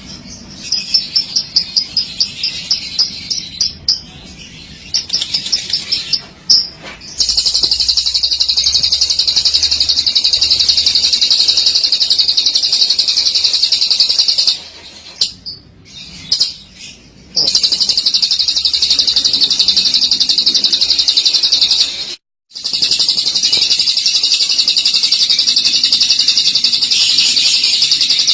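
Lovebird singing its 'ngekek': a rapid, high-pitched rolling chatter. It comes in short bursts in the first few seconds, then in long unbroken runs of about five to seven seconds each, with brief pauses between them. These long runs are the 'long ngekek' that keepers prize in a singing lovebird.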